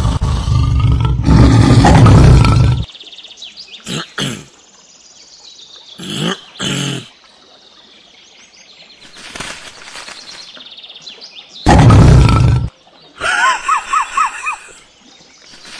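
Tiger roaring loud and deep, first for about three seconds and again, more briefly, about twelve seconds in, with birds chirping near the end.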